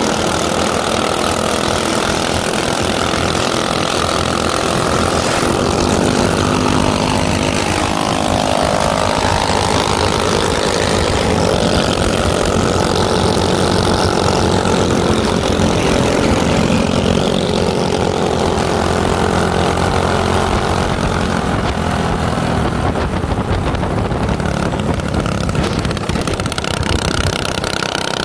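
Small minibike engine running, its pitch dipping and rising again a couple of times as the throttle changes.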